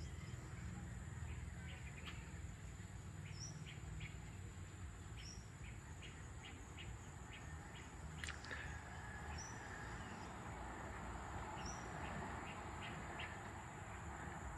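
Birds chirping in the trees at dusk, many short chirps and one short high note repeated every couple of seconds, with a single sharp sound about eight seconds in, over a low steady background rumble.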